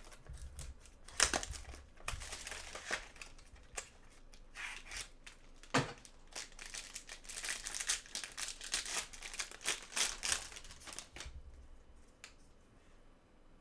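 Trading-card pack wrapper tearing and crinkling as a pack is opened and handled, in irregular rustling bursts that die down near the end.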